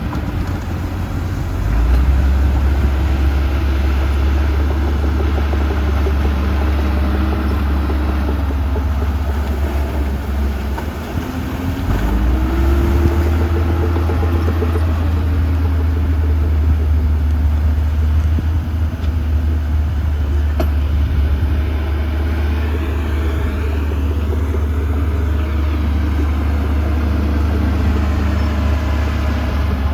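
Heavy diesel engine of earthmoving equipment running steadily with a deep rumble. Its pitch falls and rises around the middle as the throttle changes.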